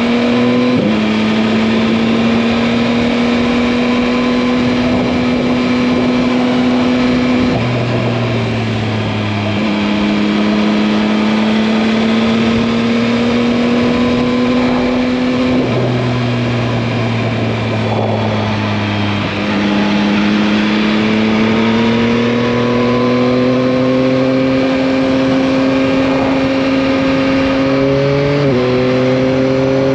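Yamaha MT-09 inline three-cylinder engine heard on board while riding, pulling steadily under light throttle. Its pitch climbs slowly and then drops at each gear change, about four times, under a constant rush of wind.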